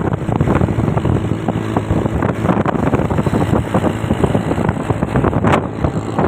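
Motorcycle engine running while riding, mixed with heavy wind buffeting on the microphone.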